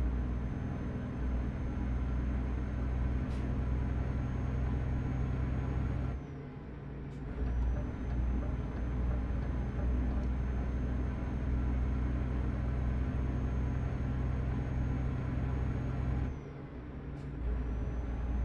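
Truck engine running steadily, heard from inside the cab, with a low drone and a faint high whine. The engine sound dips briefly twice, about six and sixteen seconds in, each time with a click.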